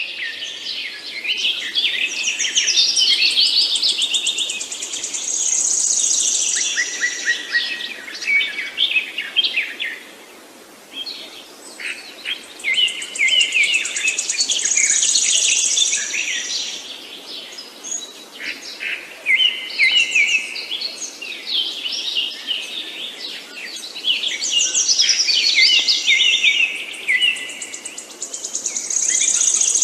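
Songbirds chirping and singing in long, busy phrases that come in waves with short lulls between them, over a faint steady background hiss.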